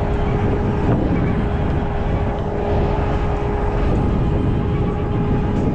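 Tow truck running under a winching pull, with a steady mechanical whine over loud low engine noise.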